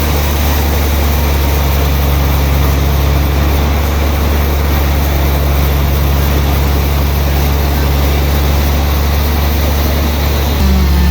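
Sawmill's engine running steadily under a constant low hum, its pitch stepping up and getting a little louder about ten and a half seconds in.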